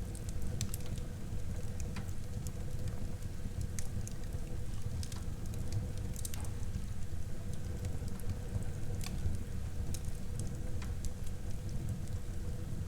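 Wood fire burning in a fireplace: a steady low rumble of flames with frequent, irregular sharp crackles and pops of burning wood.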